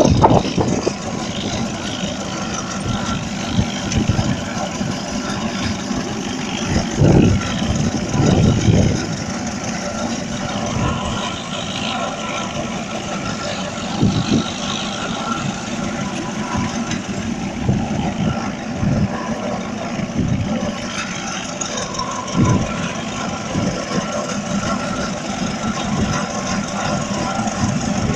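Saunderson vintage tractor engine running steadily at idle, with now and then a heavier, louder beat, most of them about a quarter of the way in.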